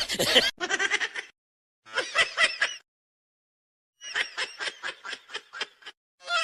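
Runs of quick, high-pitched laughter, each a fast string of short pulses, broken twice by sudden dead-silent gaps.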